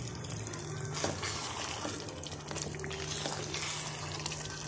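Chicken pieces sizzling in a karahi of hot oil and spice paste, with a wooden spoon stirring and scraping against the pot a few times. A low steady hum lies underneath.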